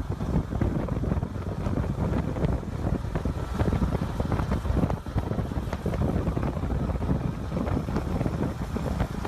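Wind buffeting the microphone: a dense, gusting low rumble.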